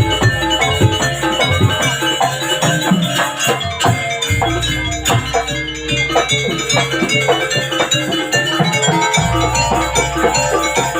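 Jaranan accompaniment from a Javanese gamelan-style ensemble: tuned metal percussion and drums play a quick, busy rhythm, and a deep low stroke sounds about every four to five seconds.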